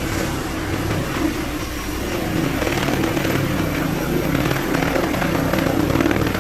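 Medical helicopter's engine and rotor running steadily, growing a little louder about two and a half seconds in.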